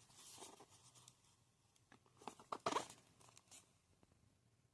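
Faint, scattered scrapes and light taps of a parcel being handled, mostly in the middle of the stretch, with almost nothing else heard.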